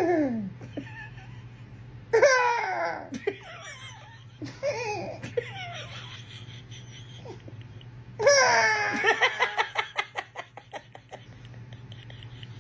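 Laughter in four bursts, each opening with a high squeal that falls in pitch; the last, about eight seconds in, runs into a fast string of laughs that fades away. A steady low hum runs underneath.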